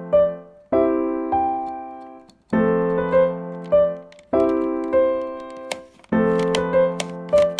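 Background music: electric-piano chords in a short phrase that repeats about every 1.8 seconds, with a few light clicks near the end.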